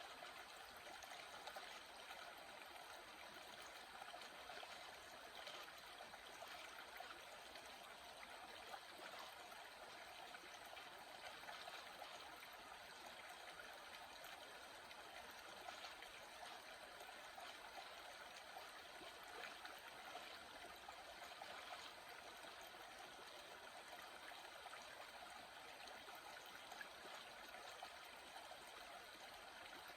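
Faint, steady sound of a small stream of water flowing and trickling.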